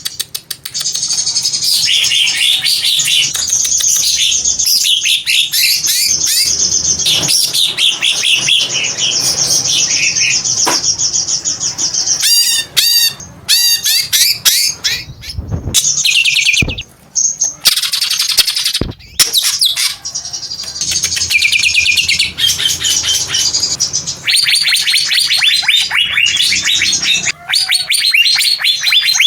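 Cucak ijo (green leafbird) singing a long, unbroken run of rapid, varied chirps and trills, with a few brief pauses about halfway through.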